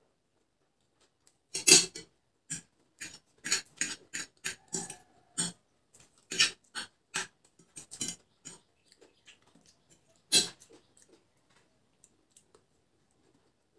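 Close-up eating sounds of instant noodles being chewed: a quick, irregular run of wet smacks and clicks, then a single louder click near the end.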